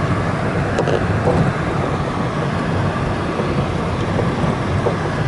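A vehicle driving along an ice road over the frozen lake, a steady low rumble of engine and tyre noise.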